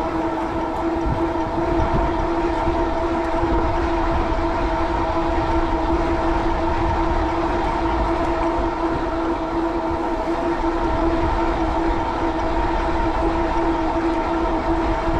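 Fat-tire e-bike riding at steady speed, its 750-watt Bafang rear hub motor giving off a constant whine, over a low wind rumble on the microphone.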